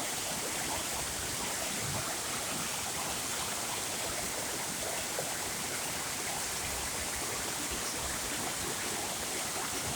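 Waterfall pouring and splashing steadily, an even rushing noise of falling water.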